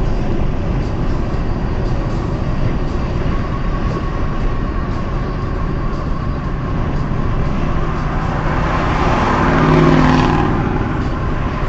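Car driving on a highway: steady low road and engine rumble. About two-thirds of the way through, a louder vehicle swells past with an engine hum and a rush of air, then fades.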